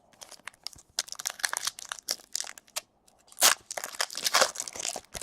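Trading card pack wrapper crinkling and tearing as a pack is opened by hand: irregular, crackly rustling, with a louder rip about three and a half seconds in and again at the end.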